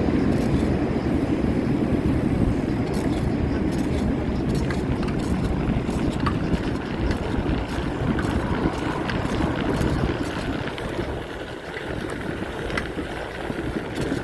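Steady low rumble of wind and road noise on the microphone of a moving bicycle, easing a little near the end, with a few faint clicks.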